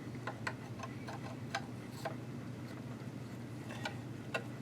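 Light, irregular clicks of a Janome ME4014 sewing machine's stitch selector being set and worked by hand, over a faint steady hum.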